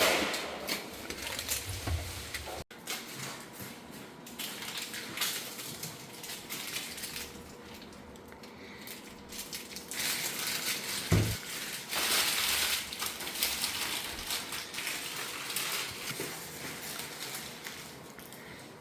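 Irregular rustling, clinking and knocking of things being handled, with one heavy thump about eleven seconds in.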